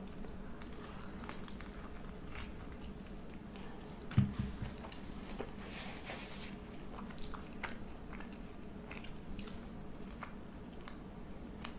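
A person eating close to the microphone: faint biting and crunchy chewing with small wet mouth clicks. A soft thump about four seconds in.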